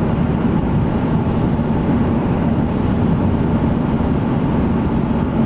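Steady low rumbling noise, even in level and without breaks.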